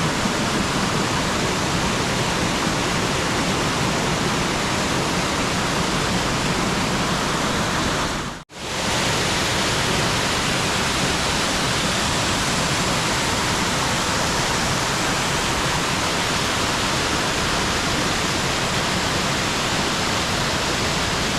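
Mountain stream rushing down a series of cascades in a narrow rock gorge: a steady, loud noise of falling water that cuts out for a moment about eight seconds in.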